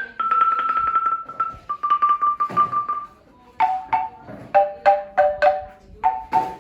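A xylophone-type instrument of struck tuned bars. It plays fast repeated strikes on one note at a time, stepping down in pitch, then from about three and a half seconds in changes to separate, spaced strikes of two notes together.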